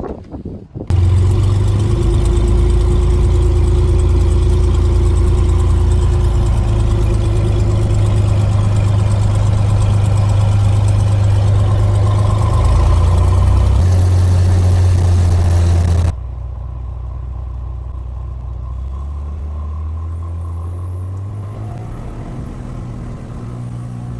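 Loud, steady engine drone that starts abruptly about a second in, then gives way at about 16 s to a quieter engine drone for the rest.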